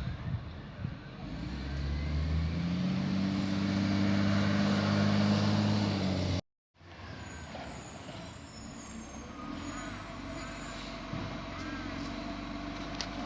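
Garbage truck's diesel engine running, rising in revs about two seconds in and holding high for several seconds. A sudden cut near the middle then leaves a quieter, steady engine hum.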